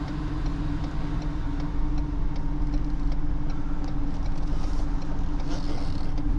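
Diesel truck engine running at low speed while the truck creeps along, a steady drone with faint, regular light ticks about twice a second.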